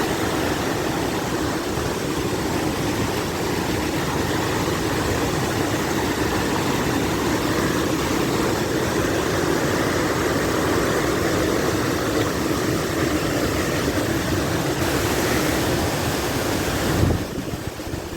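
Steady rushing water of a waterfall, an even noise with no rhythm, which drops off abruptly near the end.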